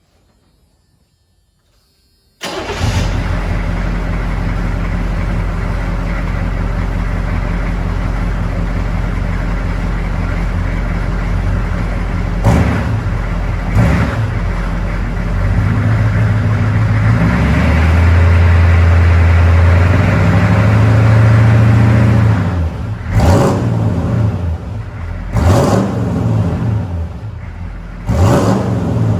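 Chevrolet 6.2 L V8 diesel engine running through a 3-inch Magnaflow Bullet exhaust with an H-pipe. After a couple of seconds of near silence the engine comes in abruptly at a steady idle, is revved a couple of times, held at a higher speed for several seconds, then blipped several times in quick succession.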